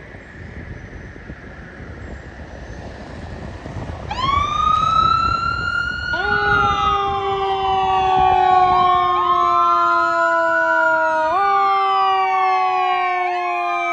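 Low rumble of vehicle noise, then about four seconds in, fire-apparatus sirens start. One tone sweeps up, and a second joins about two seconds later, its pitch falling slowly and then jumping back up, so several siren tones overlap.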